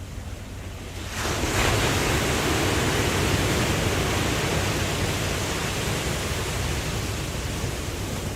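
Ocean waves: a wave breaks about a second in and its wash slowly eases off, over a low steady rumble of surf.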